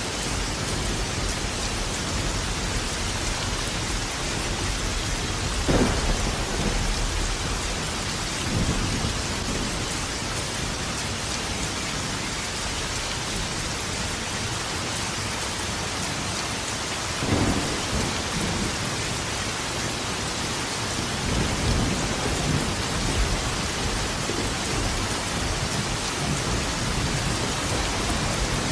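Steady heavy rain with rolling thunder: a sharp crack about six seconds in, another just past halfway, and low rumbles in the last third.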